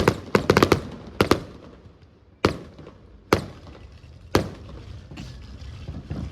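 Fireworks exploding overhead: a quick volley of sharp bangs in the first second or so, then three single bangs about a second apart, each with a short echoing tail, dying away into a low rumble near the end.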